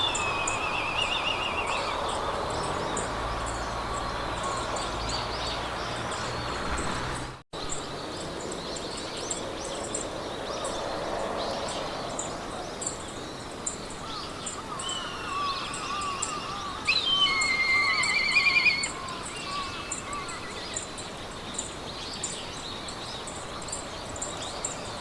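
Songbirds singing short trilled and warbled phrases in a meadow, the loudest a bright trill about two-thirds of the way through, over a steady hiss of wind through grass and a regular high ticking. The sound cuts out briefly about seven seconds in.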